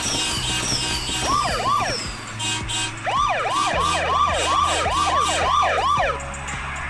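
Cartoon police car siren sound effect, a fast yelp rising and falling in pitch about three times a second: a short burst, then a longer run that cuts off near the end. Background music plays underneath.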